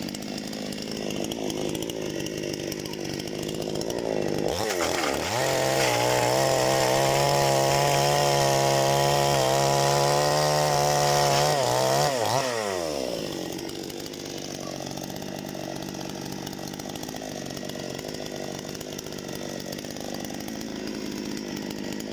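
Parma BP-058 two-stroke petrol chainsaw idling, then revved up to full throttle about four seconds in and held at high speed for about seven seconds before dropping back to idle.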